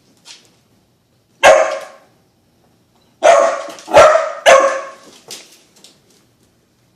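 A dog barking: one bark, then about two seconds later three more barks in quick succession.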